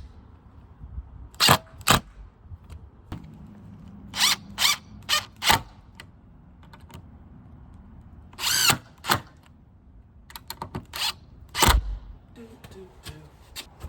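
Power drill driving screws through galvanized gate hinges into wood, in short trigger bursts about a dozen times, the motor pitch rising and falling as each screw bites.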